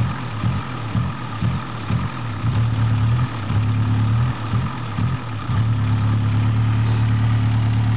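1991 VW Golf GTI Mk2 16-valve four-cylinder engine stumbling and hesitating as the throttle is touched, its note wavering and dipping instead of revving up cleanly, then settling back into a steady idle about six seconds in. The hesitation off idle is a fault the owner suspects may lie in the fuel filter, a dirty throttle body or the fuel injection system.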